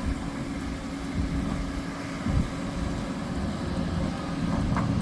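Engine of heavy road-construction equipment running steadily: a low rumble with a constant hum.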